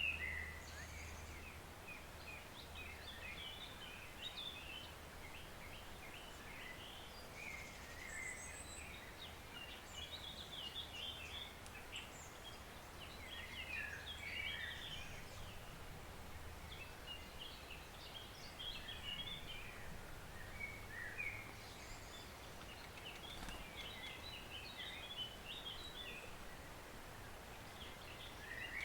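Woodland songbirds singing in short, repeated twittering phrases over the faint, steady hiss of a small forest stream.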